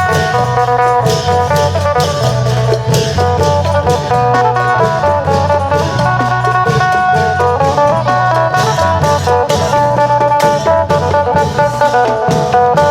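Isan long-drum (klong yao) procession music: a plucked phin lute playing a lively melody over a steady low drone, with long drums and frequent percussion strikes keeping a fast beat.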